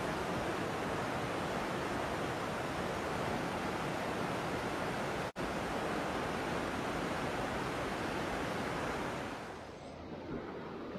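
Steady rush of river rapids, with a momentary dropout about five seconds in and dying down near the end.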